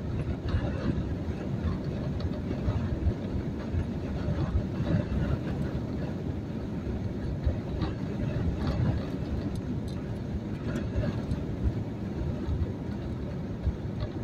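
A truck driving at highway speed through strong wind, heard from inside the cab: wind buffeting the truck over road and engine noise, a dense low rumble that surges unevenly.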